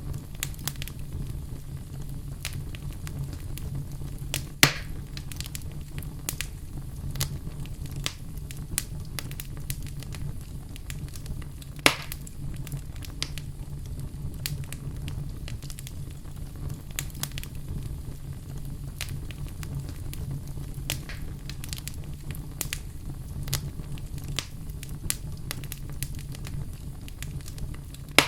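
Wood fire crackling in a fireplace: a steady low rumble under constant small crackles, with two sharper pops, about five seconds in and again about twelve seconds in.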